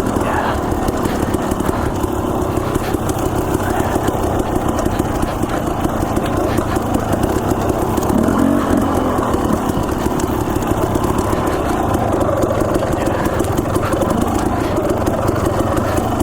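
Dirt bike engine running steadily, without big revs, as the bike rides over rocky single-track.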